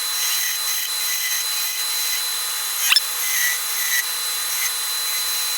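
Wood lathe running while a skew chisel cuts a wooden spindle: a steady hiss of cutting with a constant high whine, thin and without bass, and one short sharp scrape about three seconds in.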